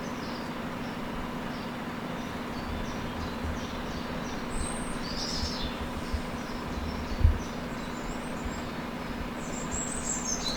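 Small birds chirping and twittering in short bursts over a steady low hum and outdoor rumble, with one low thump about seven seconds in.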